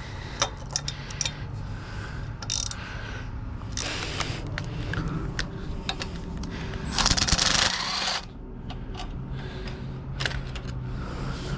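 Small metal parts being handled while a pit bike is taken apart: scattered clicks, knocks and rattles, with a louder rushing scrape about seven seconds in.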